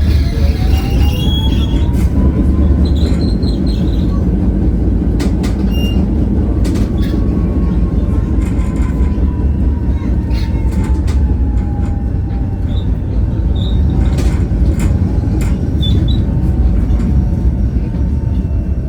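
Tatra ČKD tram running with a heavy, steady rumble. A motor whine rises in pitch over the first couple of seconds, then falls slowly through the rest, among scattered wheel-on-rail clacks and a few short, high wheel squeals.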